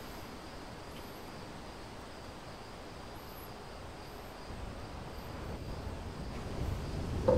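Snowstorm wind roaring, heard as a low rumble like bass in music. It rises from a faint steady hiss about halfway through and grows louder toward the end.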